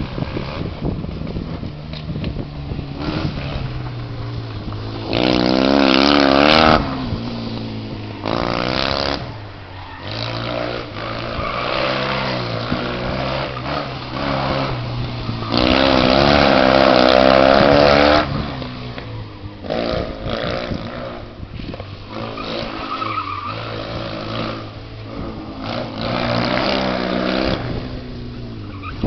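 Fiat 126p rally car's small air-cooled two-cylinder engine running hard over the course. Two loud spells of high, wavering revs come about five seconds in and again around the middle, with lower running in between.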